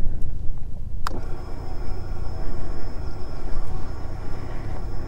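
Benelli TRK 502 motorcycle's parallel-twin engine running with a steady low rumble. A sharp click comes about a second in, and a faint, high, steady whine follows it.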